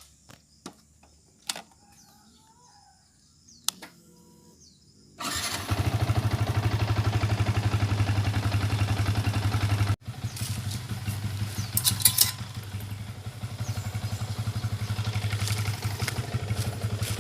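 A few faint clicks, then, about five seconds in, a small engine starts up and runs steadily with a rapid, even pulse. It drops out for an instant about ten seconds in and carries on.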